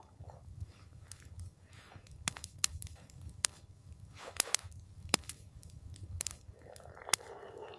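Wood fire crackling: irregular sharp pops and snaps, a few of them loud, over a low steady rumble, with a soft rushing swell near the end.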